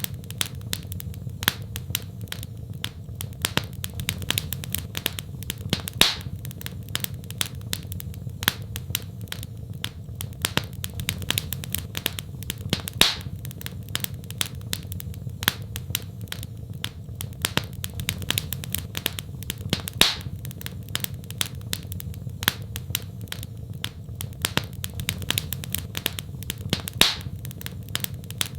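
Wood fire in a fireplace crackling, with frequent sharp snaps and a few louder pops over a steady low rumble of the flames.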